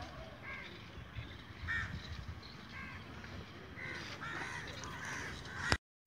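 Birds giving short, harsh calls, repeated every half second or so and fairly faint.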